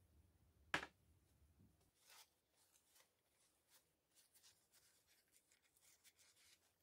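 Quiet hand-work on a cordless drill's parts: one sharp click a little under a second in, then faint light rubbing and small taps.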